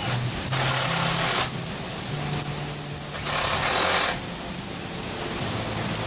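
Heavy downpour of rain, its hiss surging louder twice for about a second each. A background tune with a low bass line plays under it.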